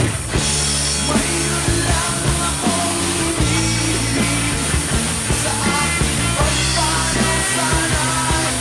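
Rock song with a sung vocal line over bass and guitar, with a drum kit played along on top of the recording.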